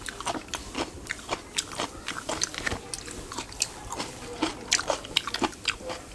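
Close-up chewing and biting of an egg burger: a rapid, irregular run of small wet clicks and crunches.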